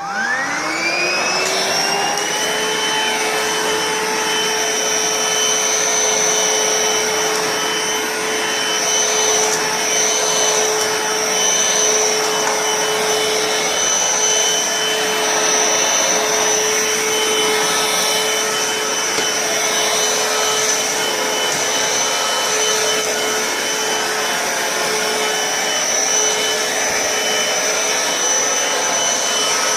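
Vax Cordless SlimVac stick vacuum's motor spinning up with a rising whine over the first couple of seconds, then running steadily with a high whine over the rush of air.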